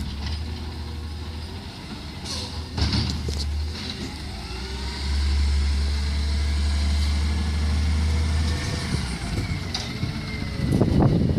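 Garbage truck's diesel engine running with a deep steady hum, rising in level about five seconds in and holding there for about three and a half seconds before easing off. Brief hissing bursts come early, and a burst of clattering near the end.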